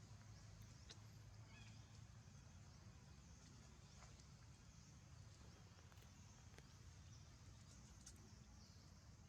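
Near silence: a faint steady low hum with a few faint, sharp clicks.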